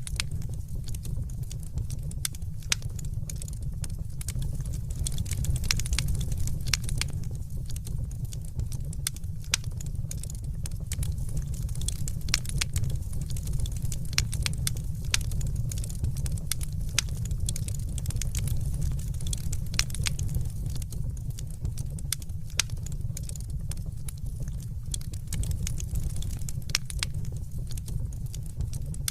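Crackling fire: a steady low rumble of burning with many sharp pops and snaps scattered irregularly throughout.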